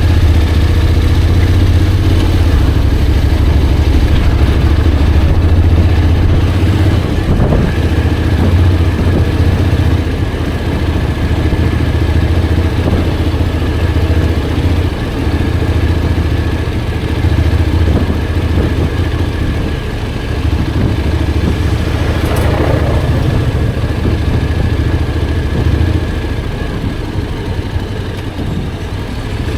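Honda X-ADV 750's parallel-twin engine running while the motorcycle is ridden, a steady low drone with small rises and falls in level.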